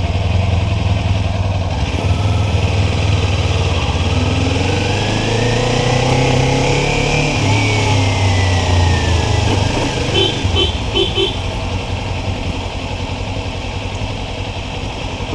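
Kawasaki Ninja 400's parallel-twin engine running at low speed while maneuvering to park. Midway a whine rises and then falls in pitch, and about two-thirds through come four quick beeps.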